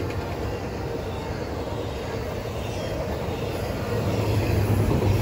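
Intermodal freight train's well cars, loaded with trailers and double-stacked containers, rolling past on the rails: a steady rumble of steel wheels on track that grows louder about four seconds in.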